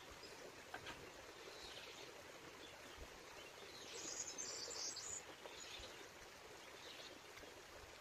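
Quiet forest background, with a bird chirping in a brief high-pitched flurry about halfway through.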